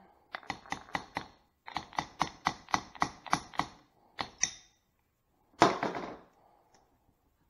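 A quick run of sharp metal knocks, about five a second, in two bursts, followed by one louder clunk near the end.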